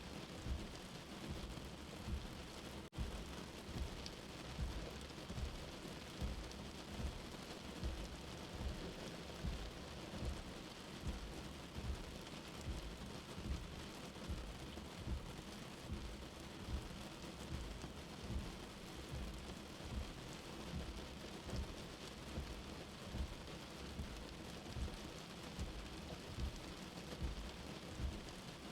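Steady rain, heard as from indoors, with a soft heartbeat thumping low and evenly about once a second under it.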